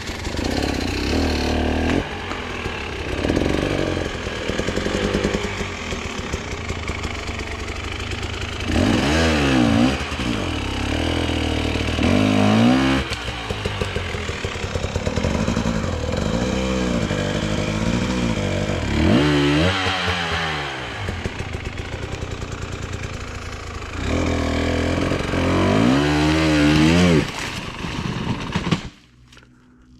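Enduro motorcycle engine running under load, with repeated bursts of revs that rise and fall in pitch, four of them stronger than the rest. The engine sound cuts off abruptly near the end.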